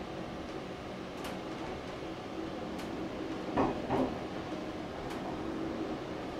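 Steady engine hum of trains standing at a station platform, with a few scattered sharp clicks and knocks.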